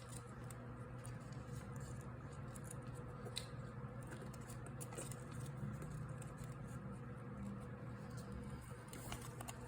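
Faint handling of folded colour paper, a flap being tucked into a slot, with a few soft ticks of paper, over a steady low hum.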